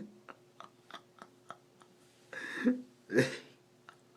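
Two short breathy vocal sounds from a person, close together about two-thirds of the way in; the second is the louder. Faint small clicks come about three times a second over a low steady hum.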